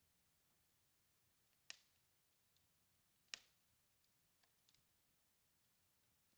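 Faint crackling of a wood fire in a fireplace: two sharp pops about a second and a half apart, among quieter scattered ticks.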